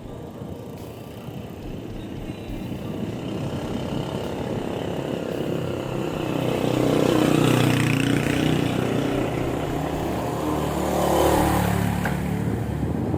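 Road traffic: a motor vehicle's engine rumble grows louder and passes, loudest about halfway through and again near the end.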